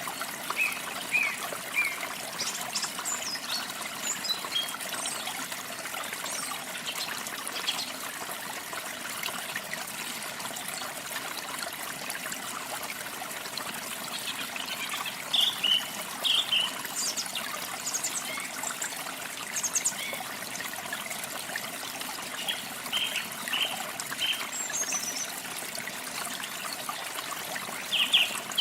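Steady trickle of a small stream, with small birds giving short runs of high chirps every few seconds, most of them about halfway through and near the end.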